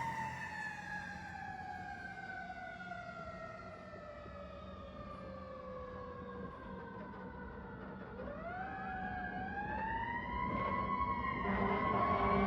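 Fire engine siren winding slowly down in pitch for about eight seconds, then winding back up again near the end.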